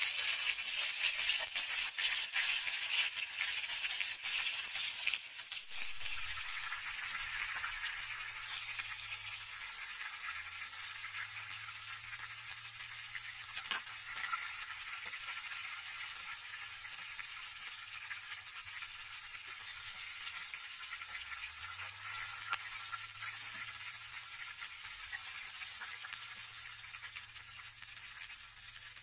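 Battered chicken pieces frying in hot oil in a pan: a crackling sizzle with sharp clicks of the metal spatula for the first five seconds, then a softer, steady sizzle.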